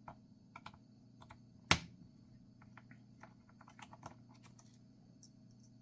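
Scattered light clicks and taps from handling a laptop's plastic case and small screws, with one louder sharp knock a little under two seconds in.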